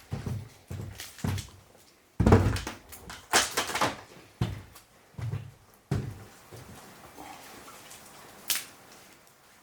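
A series of knocks and thuds from things being handled, with a louder, longer scraping rustle about two seconds in. It then goes quieter, with one sharp click near the end.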